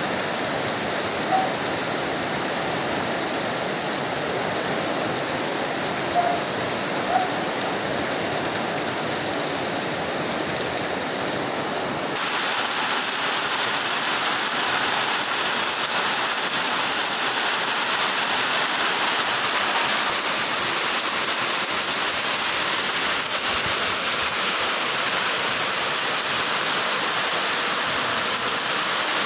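Heavy rain falling steadily, running off the edges of corrugated metal roofs and splashing onto wet concrete. About twelve seconds in the rain noise abruptly becomes louder and brighter, then holds steady.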